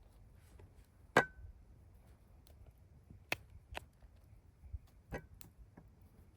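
Scattered sharp clicks and taps, about six of them, the loudest about a second in. Two are followed by a brief metallic ring.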